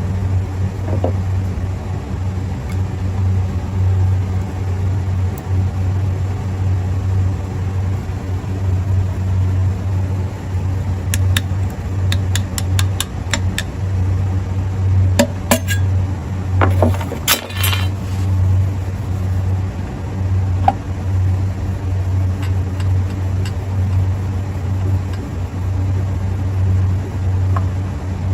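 Steady low hum of running machinery, with a cluster of light metallic clinks and clicks about halfway through as metal parts are handled.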